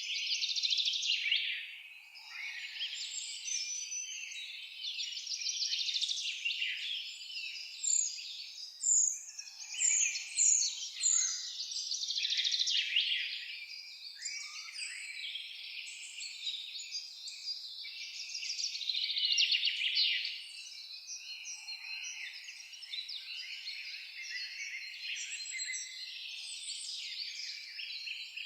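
Several birds singing and chirping at once in a dense, overlapping chorus of high trills and short notes. A run of quick downward-sliding whistles comes about nine to eleven seconds in.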